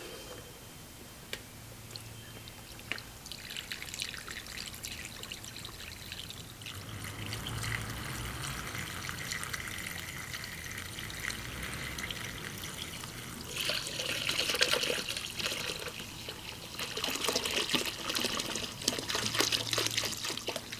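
Evapo-Rust rust remover being poured into a soaking container: a trickling pour that starts a few seconds in and gets louder and splashier twice in the second half.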